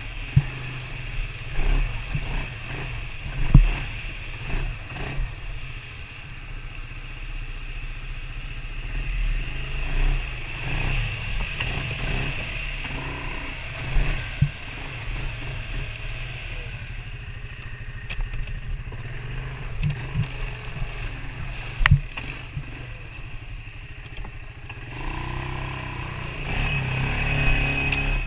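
Off-road vehicle engine running steadily in a deep drone with a constant higher whine, and scattered knocks and rattles from riding over rough trail. There is one sharp knock about 22 seconds in.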